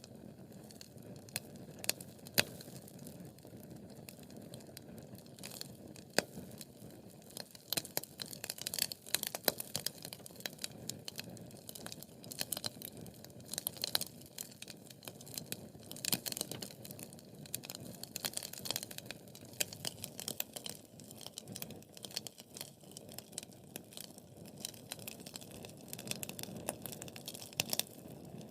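Wood fire burning in a fireplace, crackling with many irregular sharp pops and snaps over a steady low rush of flame. The crackling is busiest through the middle stretch.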